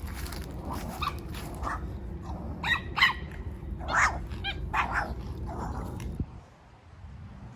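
A dog barking in a series of short, sharp barks, over a steady low rumble that stops suddenly about six seconds in.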